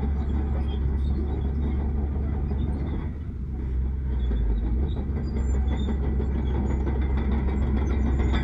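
Heavy diesel earthmoving machinery running: a steady low engine rumble that dips briefly about three seconds in, then comes back up.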